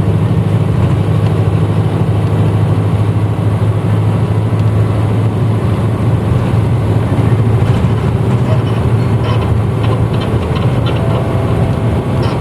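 Onboard running sound of a 1994 Hino Blue Ribbon diesel city bus: a steady low engine drone while the bus drives along, with a few faint light rattles or clicks in the last few seconds.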